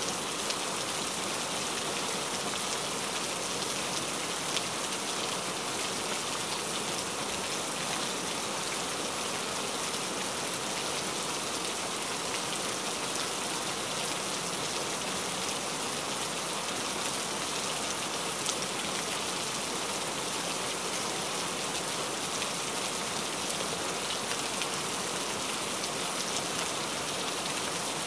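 Steady rainfall: a dense, even hiss of rain with scattered sharper drop ticks through it.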